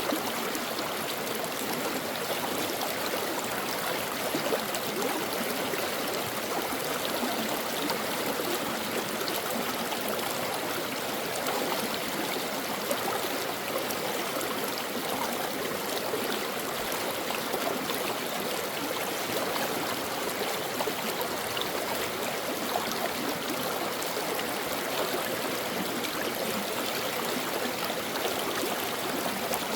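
A brook running over rocks: a steady rushing and babbling of flowing water with small quick splashes.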